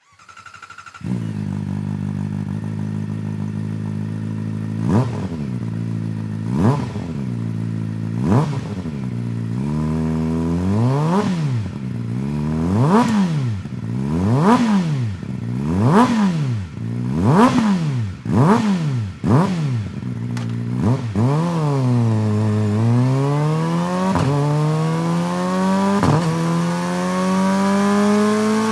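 Kawasaki ZX-4RR's 399 cc inline-four, breathing through a BEAMS R-EVO II titanium full exhaust, starts about a second in and idles. It is then blipped: three single revs, then about eight quick rev-ups in a row. Near the end it is taken into a long, slow rising rev that is still climbing as it ends.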